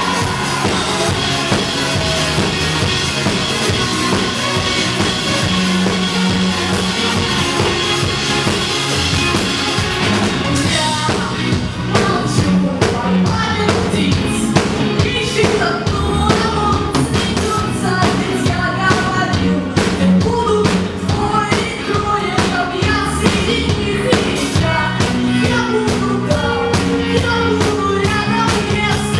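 A band playing a song with drum kit, guitar and singing. About ten seconds in, the dense, bright wash thins out and the drum strokes stand out more clearly under the voice.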